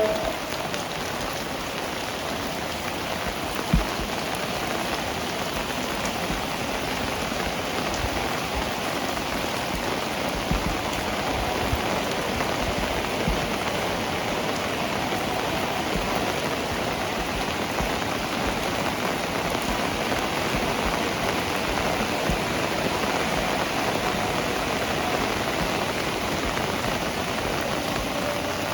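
Heavy rain falling steadily, with a few sharper knocks of drops striking a surface; the loudest comes about four seconds in.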